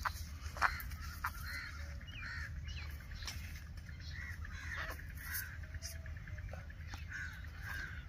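Birds calling over and over, short calls following one another throughout, over a steady low rumble, with a few sharp clicks in the first second or so.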